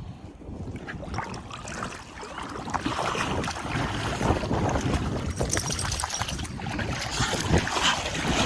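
Wind buffeting the microphone over rushing water, a rough noise that grows steadily louder.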